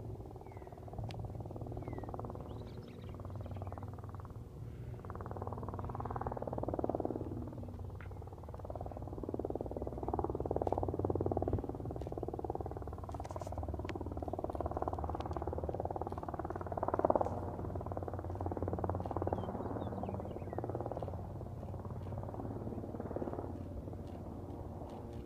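Hawker Sea Fury's radial piston engine droning steadily. It swells and fades several times and is loudest about two-thirds of the way through.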